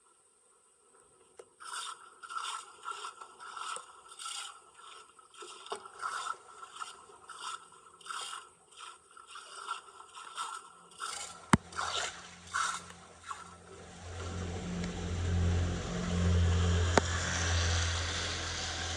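Repeated scraping strokes of a hand tool dragging through debris, about two a second for roughly ten seconds, with a sharp click near the end of them. After that a steady rumble with a low hum rises and holds.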